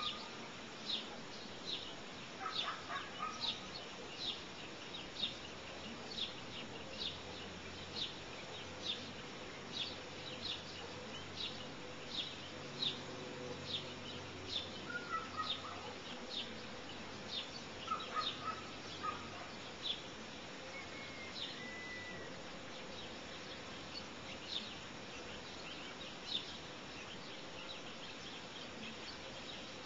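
A bird giving short, high chirps over and over, about one or two a second, thinning out in the last third. A few lower calls come in now and then over a faint steady hum.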